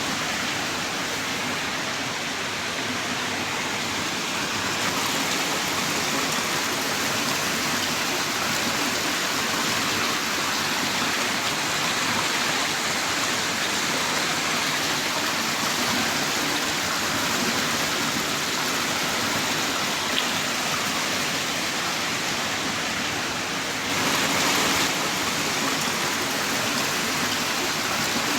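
Heavy rain downpour: a steady, dense hiss of rainfall, swelling slightly for about a second near the end.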